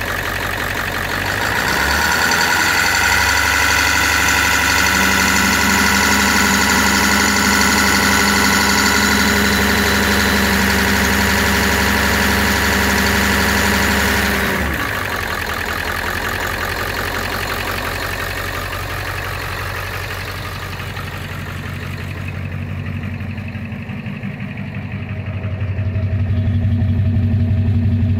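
Ford E-350's 7.3 L Power Stroke V8 turbo-diesel idling while warming up after a cold start at −8 °C. About two seconds in, a steady higher whine and hum join the engine sound. They stop abruptly around the middle, and a deeper hum builds near the end.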